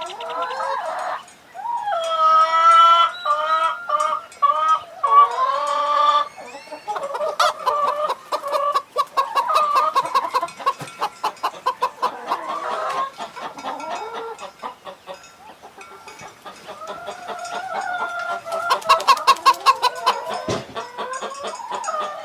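Chickens clucking in quick repeated notes, with a rooster crowing in long pitched calls a couple of times.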